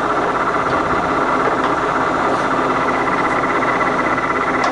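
Harrison M500 centre lathe running under power with its feeds engaged: steady gear noise from the headstock and feed gearbox, with a constant high tone over it.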